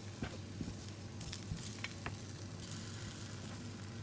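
Potato slices sizzling in hot oil as they are laid one by one into a frying pan: a steady hiss with scattered small crackles.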